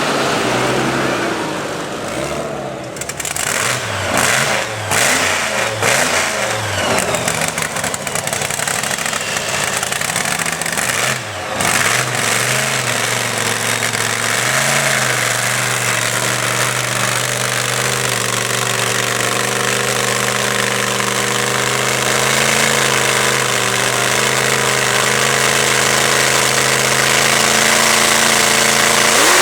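Supercharged V8 drag truck engine revving in repeated blips, its pitch rising and falling for the first dozen seconds. It then settles into a steady, lumpy run that slowly grows louder.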